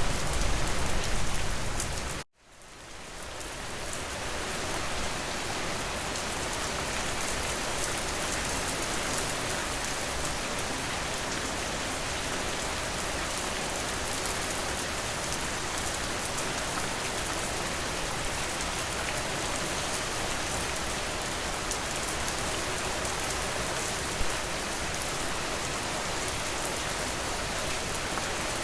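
Steady heavy rain falling on a surface, a dense even hiss of drops. About two seconds in it cuts out suddenly for an instant, then fades back up over a couple of seconds and carries on steadily.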